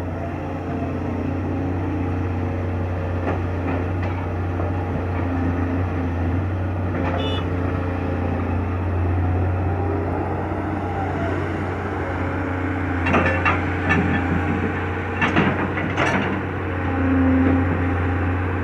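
Excavator's diesel engine running with a steady low hum and a faint whine that rises and falls. Several sharp knocks come close together about two-thirds of the way through.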